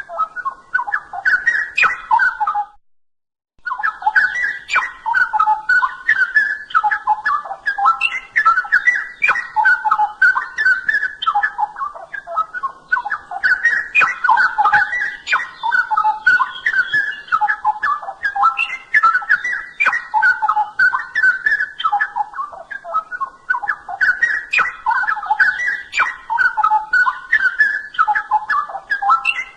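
Straw-headed bulbul (cucak rowo) singing continuously: rapid, loud, liquid whistled phrases running one into the next. The song breaks off for about a second near the start.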